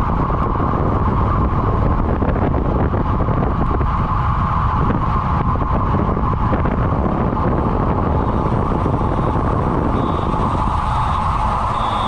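Steady, loud rushing of wind over the microphone, as from a camera on a road bike at race speed.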